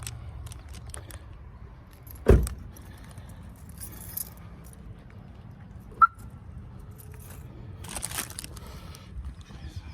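A car door thuds shut about two seconds in. Keys jingle, and about six seconds in the car's lock gives one short chirp as it is locked. There is more key jingling near the end.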